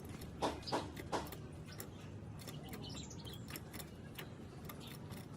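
Cage birds giving faint short chirps amid a scatter of light ticks and taps, with three louder knocks about a third of a second apart in the first second or so.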